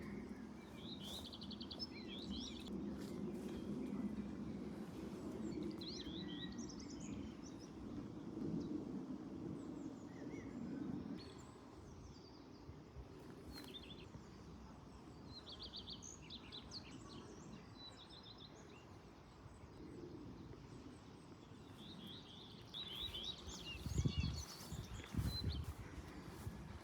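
Small songbirds chirping and twittering in short quick bursts, over a low steady rumble that fades about ten seconds in. A few low thumps come near the end.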